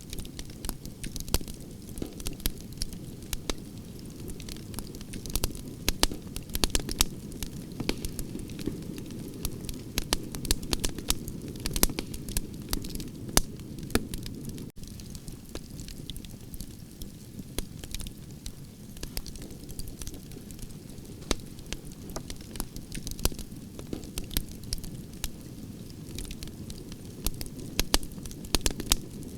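Campfire of burning branches crackling: a steady low rush of flames with frequent sharp, irregular pops and snaps from the wood.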